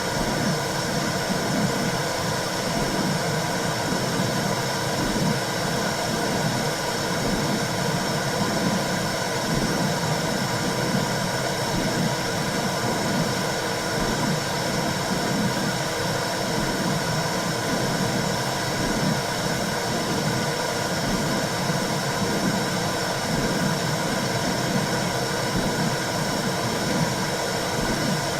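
Womb sound: a steady, dense whooshing rumble with a low churning undertone and a faint constant hum, played as continuous white noise to soothe a newborn.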